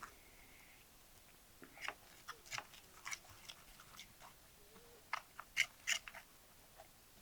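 Crisp fried food, the coating of homemade fried chicken or onion rings, being bitten and chewed: a run of irregular sharp crunches, loudest near the end.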